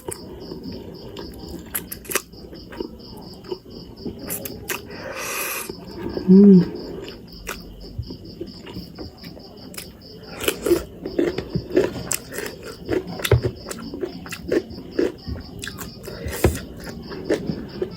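Close-up chewing and mouth noises of someone eating spicy instant noodles, with clicks and small wet sounds coming more often in the second half, and a brief loud hum about six seconds in. Crickets chirp steadily in the background in a fast pulsing rhythm.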